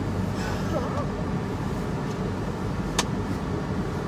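A car engine idling, heard inside the cabin as a steady low hum, with a single sharp click about three seconds in.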